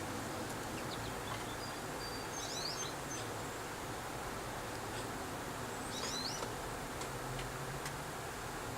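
Small birds chirping: brief high twittering calls about two and a half seconds in and again about six seconds in, over steady background noise.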